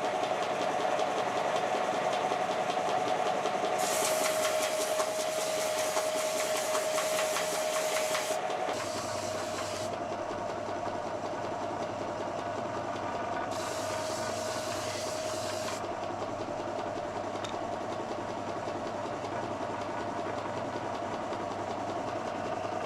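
Electric power tool motor running with a steady whine, with stretches of harsher hissing grinding or sanding noise that start and stop abruptly several times.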